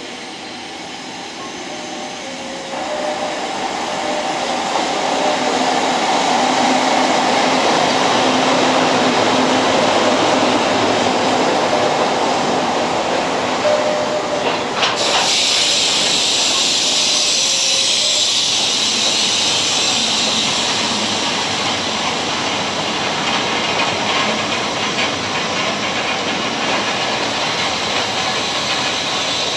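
A JR West EF65 electric locomotive pulling a train of loaded Hoki 800 ballast hopper wagons through the station. It grows louder over the first several seconds as the locomotive approaches, then the hopper wagons roll past. About halfway a loud high hiss starts suddenly and lasts while the wagons go by.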